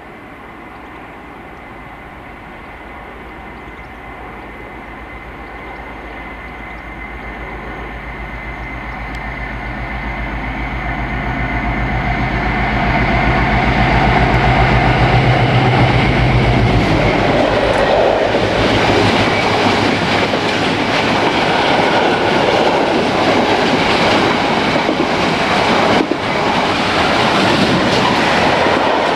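A train approaches and passes close by. A steady engine hum grows louder until about two-thirds of the way through, when the locomotive goes past. Then the wheels of the following vehicles clatter rhythmically over the rail joints.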